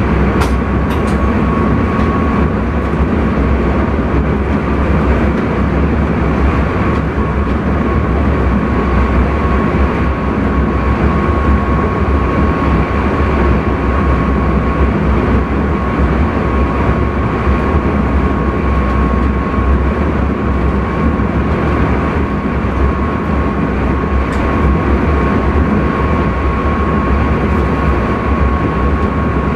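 Intercity train running at steady speed, heard from the driver's cab: a constant rumble of wheels on the rails with a steady high whine over it. A few faint clicks come about a second in.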